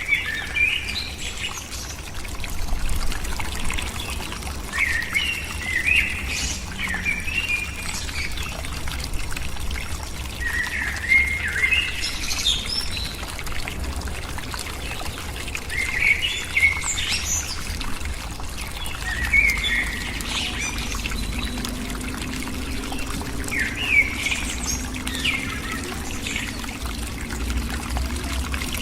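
Birds calling in short chirping bursts every few seconds, over a steady rushing noise like running or pouring water.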